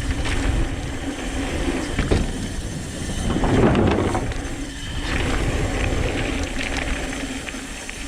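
Santa Cruz V10 downhill mountain bike riding fast down a dirt trail: tyres on the ground, the chain and frame rattling over bumps, and wind on the microphone. A louder rough stretch comes about three and a half seconds in.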